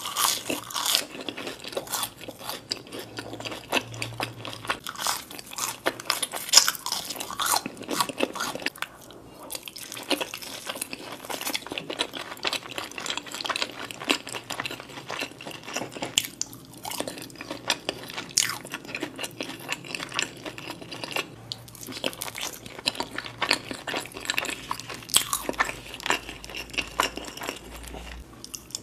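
Close-miked chewing and crunching of crispy fried food (french fries and glazed fried chicken tenders), dense crackly crunches throughout with a couple of brief lulls.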